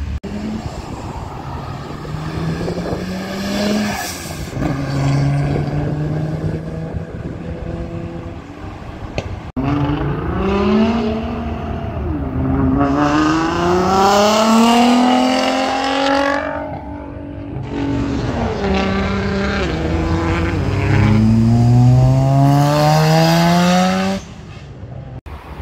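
Car engines accelerating hard, the engine note climbing over a few seconds and then dropping back, again and again, in several short stretches with abrupt breaks between them.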